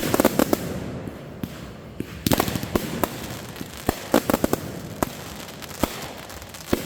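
Fireworks going off in rapid runs of sharp bangs and crackles. One cluster comes right at the start and another from about two to four and a half seconds in, with a single sharp bang near the end.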